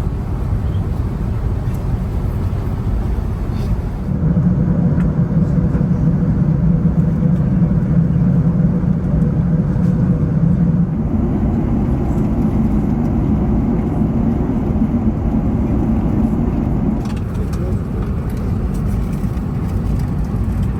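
Steady low cabin roar of an Airbus A380 airliner in flight: engine and airflow noise heard from inside the passenger cabin. It shifts in level and tone abruptly about 4, 11 and 17 seconds in.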